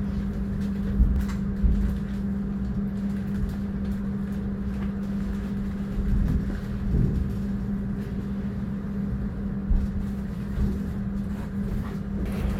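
Inside a passenger train coach rolling slowly into a station: a steady low hum over a rumble from below, with a few soft knocks.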